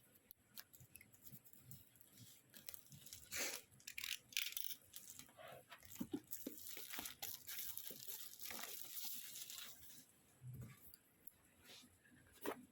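Packaging being opened by hand: wrapping tearing and crinkling, with a scatter of small clicks and rustles.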